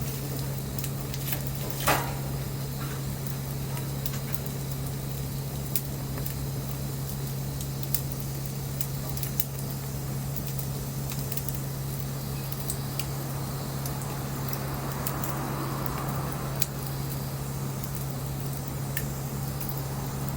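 Wood bonfire burning, crackling and hissing with scattered sharp pops, one louder pop about two seconds in, over a steady low hum.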